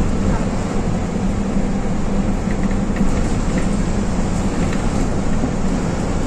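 A steady engine drone with a constant low hum.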